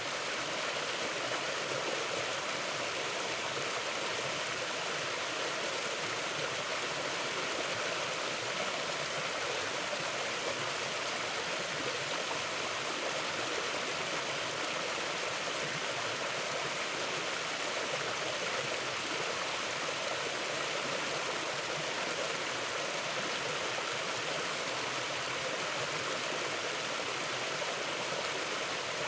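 Mountain river running: a steady, even rush of flowing water that does not change.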